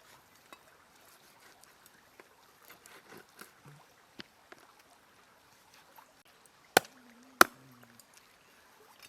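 Faint scattered small clicks and handling noises, then two sharp knocks a little over half a second apart about three-quarters of the way through.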